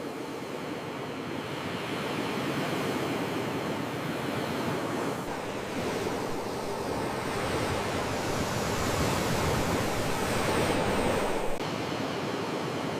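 Sea waves washing ashore in a continuous surf that slowly swells and eases. A deeper rumble joins about five seconds in and cuts off abruptly near the end.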